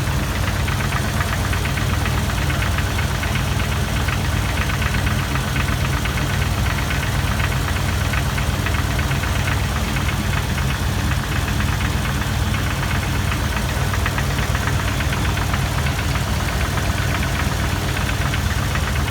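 2002 Jeep Wrangler TJ engine idling, heard from underneath, with a rapid, even metal-on-metal tapping from around the oil pan and flex plate that sounds like something loose. The owner suspects a cracked flex plate, but piston slap or a broken piston skirt has not been ruled out.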